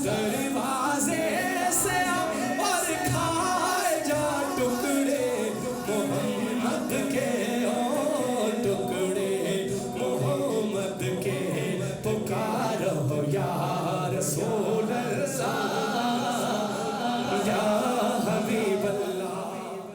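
Men singing an Islamic devotional hymn at a Milad gathering, a sustained melodic recitation that fades out near the end.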